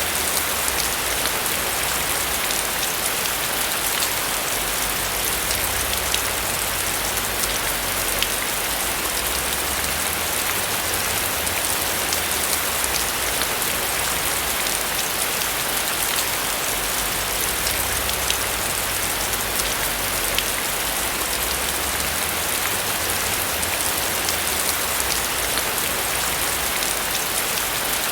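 Steady rain falling on a roof: an even hiss with scattered clicks of single drops and a soft low rumble underneath.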